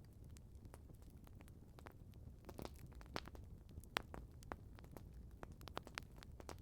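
Wood campfire crackling: irregular sharp pops and snaps over a low steady rumble, one pop louder than the rest about four seconds in.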